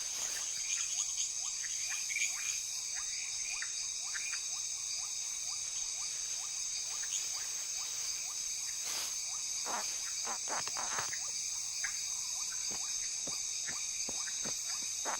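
Tropical rainforest night chorus: a steady, high-pitched insect trill with frogs calling in many short, repeated chirps, a few longer calls in the middle.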